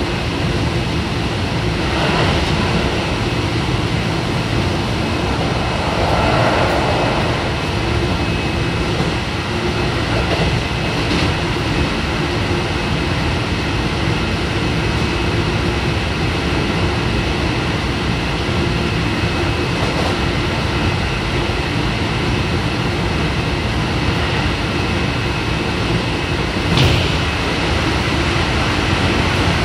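Keio 7000 series electric train, fitted with a Hitachi IGBT inverter, running at speed and heard from inside the passenger car: a steady rumble of wheels on rail with steady tones running through it. There is one brief sharp knock near the end.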